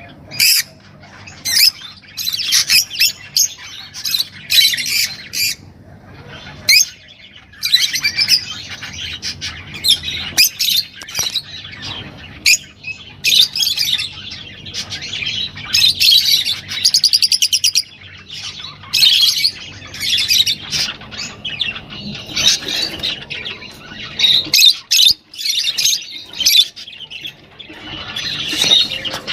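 Cage birds calling: dense, irregular sharp chirps and squawks, with a short fast trill about two-thirds of the way through.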